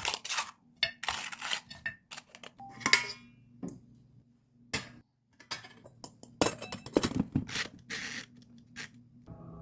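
Kitchen handling sounds: a run of clinks, taps and rustles from dishes, utensils and packaging. One dish rings briefly about three seconds in. It goes quiet for a moment, then a busier stretch of clatter follows after about six seconds.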